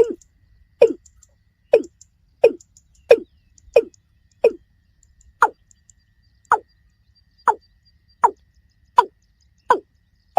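Watercock (kora) calling: a steady series of short, low calls, about one a second, each dropping in pitch.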